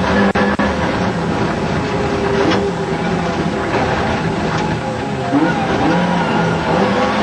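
Ford Escort Mk 2 rally car's engine heard from inside the cabin, its revs rising and falling again and again under hard driving, with two brief breaks in the sound under a second in.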